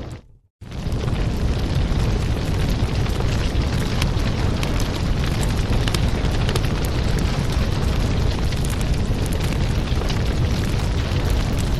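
Wood fire burning in a fireplace: a steady low roar with scattered crackles and pops. The sound drops out briefly for about half a second just after the start, then resumes.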